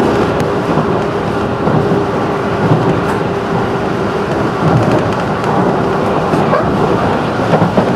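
JR 211 series electric train running, heard from inside the car: a steady rumble of wheels on rail, with a faint steady hum in the first few seconds that fades out.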